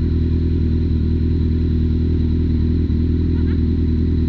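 Motorcycle engine running at a steady, unchanging pitch and level.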